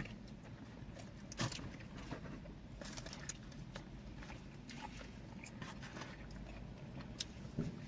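Quiet eating sounds: chewing, with scattered small clicks and crackles, one a little louder about a second and a half in.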